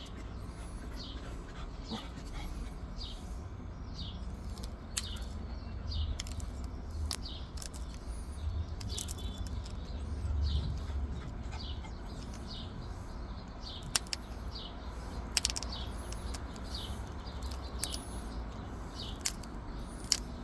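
Obsidian being pressure-flaked: irregular sharp little clicks as tiny flakes snap off while side notches are worked into a small arrowhead. Birds chirp over and over in the background, and a low rumble runs underneath.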